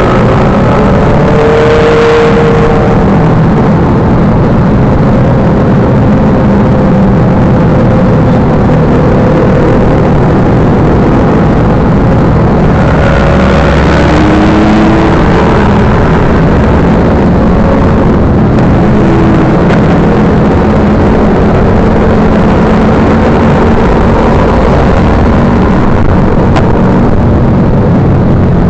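Motorcycle engine running continuously under a loud, steady rumble of wind and road noise, with a couple of brief rises in engine pitch.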